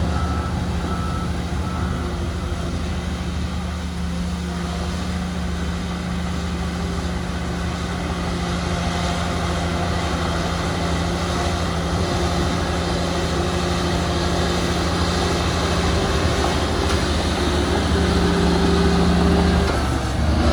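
Heavy diesel construction machinery running steadily, with the engine load rising toward the end. A faint repeated beep sounds during the first couple of seconds.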